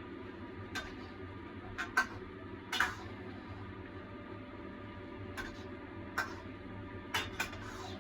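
Spatula knocking and scraping against a wok at irregular intervals while a cornstarch-thickened sauce is stirred, about eight short clicks with one longer scrape near three seconds in. A steady low hum sits underneath.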